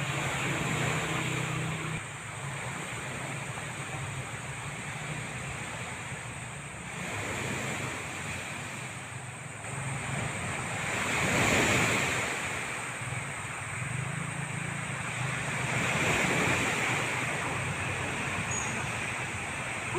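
Wind rushing, with two stronger gusts swelling up about halfway through and again a few seconds later.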